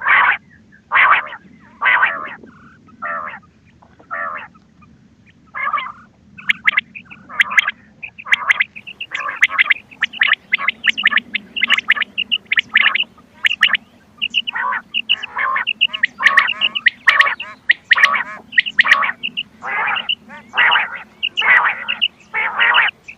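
Quail calling over and over in short sharp notes: a few spaced calls with a short pause at first, then from about six seconds in the calls come thick and overlapping, a recorded quail call of the kind played to lure quail for hunting.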